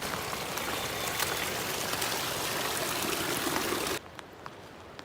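Steady rush of running water. It cuts off abruptly about four seconds in, leaving a much quieter background.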